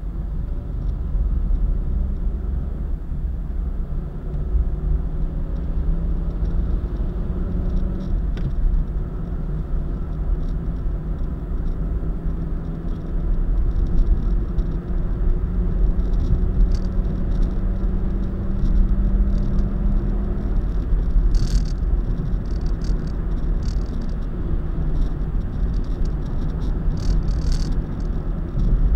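Car driving at highway speed: a steady low rumble of road and engine noise with a droning engine tone. Short ticks or rattles come in over the second half.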